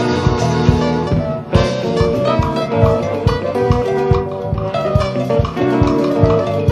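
Band playing jazz-rock live: guitar over bass and a drum kit keeping a steady beat, with a brief break about a second and a half in.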